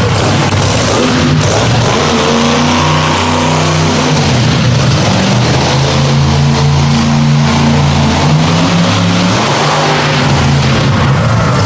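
Monster truck engine running loud and revving, its pitch stepping up and down every few seconds over a steady wash of noise.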